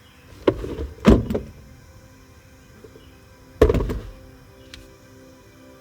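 Three heavy thunks, about half a second, a second and three and a half seconds in, the one at a second the sharpest, from a car's body being handled, over soft background music.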